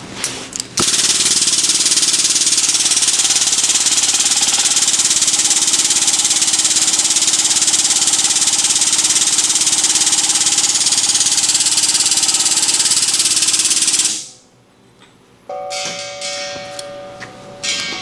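A powered lift running steadily while hoisting a welding gas cylinder. It starts abruptly about a second in and cuts off suddenly about 14 seconds in, followed by a few light metallic clinks.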